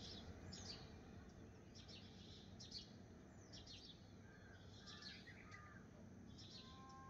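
Faint bird calls over a low steady background hiss: short high chirps about once a second, with a few lower, warbling notes in the middle. A thin steady tone starts just before the end.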